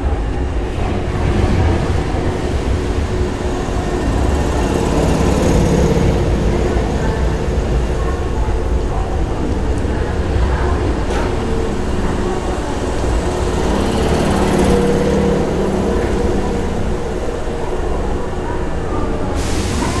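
Hankyu 5100 series electric train moving along the platform: a steady, loud rumble of wheels and running gear, with a faint pitched hum over it.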